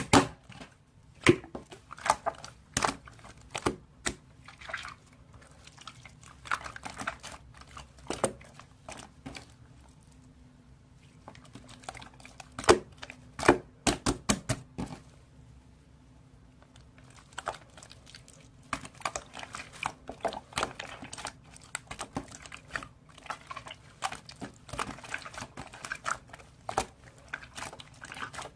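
Glossy, sticky slime being squished and pressed by hand, giving irregular wet clicks and pops, with a few quieter pauses along the way.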